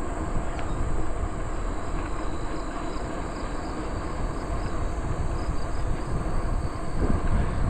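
Steady rumble of wind on the microphone and bicycle tyres rolling along a trail while riding, with insects trilling faintly and steadily underneath.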